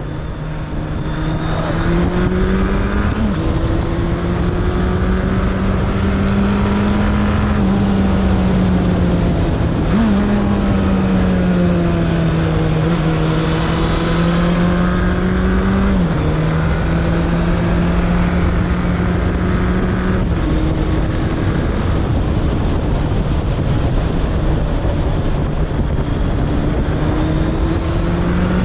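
Suzuki Bandit 1200's inline-four engine running at steady road revs while riding. Several times the engine note jumps briefly and settles at a slightly different pitch.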